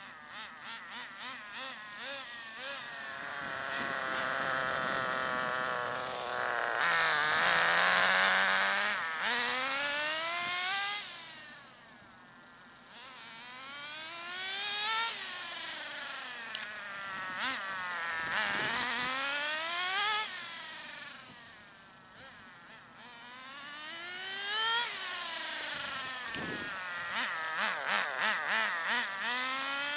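Nitro RC car's .18 glow engine buzzing while being driven on a break-in tank, set very rich to keep it cool. Its pitch climbs and then drops sharply over and over. It grows loud and fades away several times as the car comes near and moves off.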